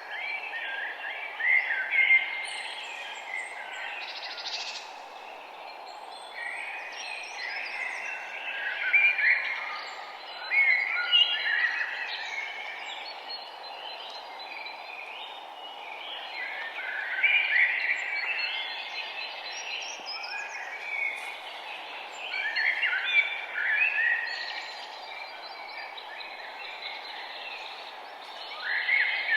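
Songbirds singing outdoors, bursts of warbling, chirping song lasting a second or two each, repeated every few seconds, over a steady background hiss of ambient noise.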